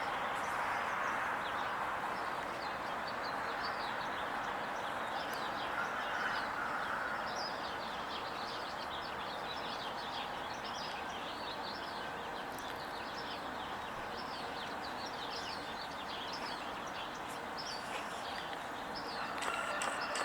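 Small birds chirping over and over in quick, high calls, over a steady background hiss of outdoor noise.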